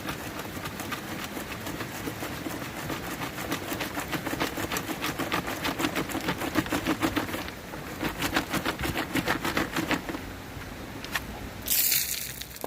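River gravel rattling in a fast, even rhythm of about six strokes a second as it is worked by hand for gold. It breaks off briefly about halfway, then stops a couple of seconds before the end. A short loud hissing splash follows near the end.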